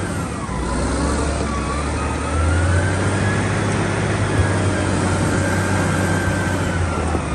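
Large Caterpillar wheel loader's diesel engine running under load as it raises a full bucket over a truck trailer: a steady deep rumble with a high whine that dips and rises in pitch, getting a little louder a couple of seconds in.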